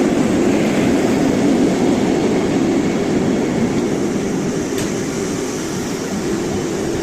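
Train running on the rails: a steady rumble that eases off a little, with a single click about five seconds in.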